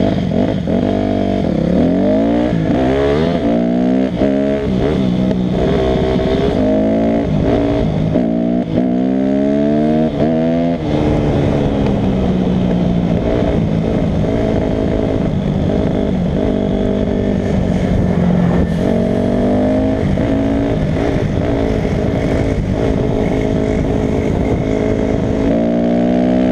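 Dirt bike engine under way, revving up and dropping back repeatedly through the gears for the first ten seconds or so, then running at a steadier pace, with a few more rising revs near the end.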